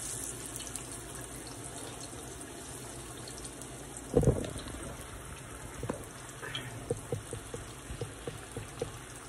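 Ripe plantain slices frying in a skillet of oil, a steady sizzle. A loud thump comes about four seconds in, followed by a run of small knocks and clicks.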